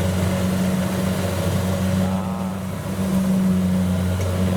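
Engine running steadily at an even speed, a loud low drone.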